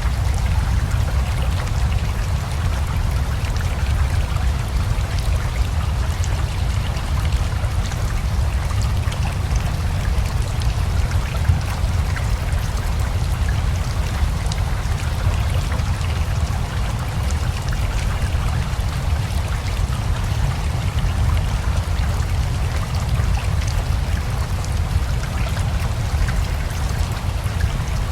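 A steady rushing of river water with rain pattering over it. A deep rumble lies under the rush, and the sound holds the same throughout.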